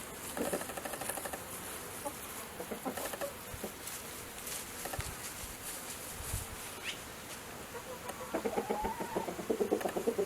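Chickens clucking: short calls come now and then, growing busier and louder near the end.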